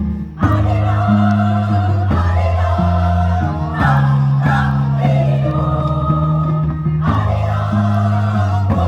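A choir singing with instrumental accompaniment, held bass notes changing about once a second beneath the voices. The music dips briefly just after the start, then carries on.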